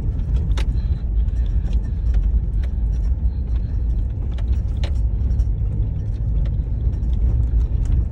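Four-wheel-drive vehicle heard from inside the cabin, crawling over a rough dirt road: a steady low rumble of engine and tyres, with scattered clicks and knocks of rattling.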